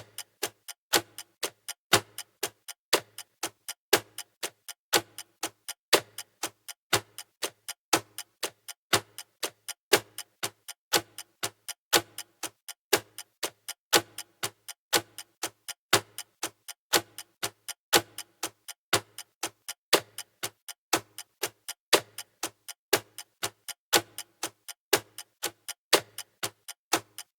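Countdown timer's clock-style ticking: steady sharp ticks, a louder one each second with softer ticks between.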